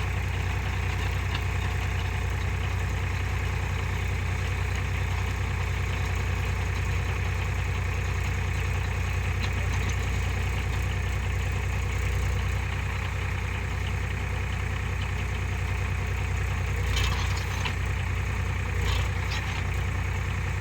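Tractor diesel engine running steadily with a deep, even hum. Two brief louder noises come near the end.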